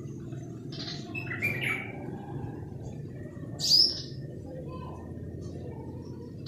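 Birds calling: a cluster of short chirps about a second in and one high, sharp call sliding downward near four seconds, over a steady low background rumble.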